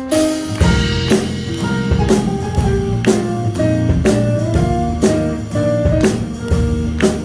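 Live band playing an instrumental passage: a drum kit comes in about half a second in and keeps a steady beat of roughly two strikes a second, under a bass line and a melody of pitched notes, with no singing.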